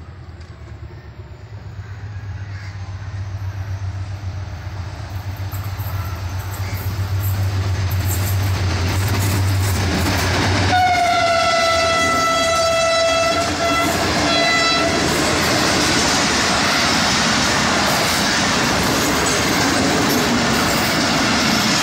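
HGMU-30 diesel-electric locomotive approaching, its engine drone growing steadily louder. About eleven seconds in it sounds its horn for roughly four seconds, then the passenger coaches roll past with loud, steady wheel-on-rail noise.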